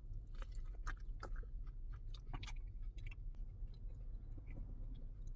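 A person chewing a mouthful of cooked collard greens, with irregular faint clicks from the mouth.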